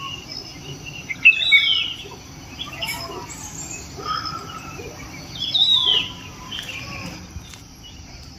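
Small birds chirping and calling, with two louder falling calls, one about a second and a half in and one near the middle, over a faint steady high hiss.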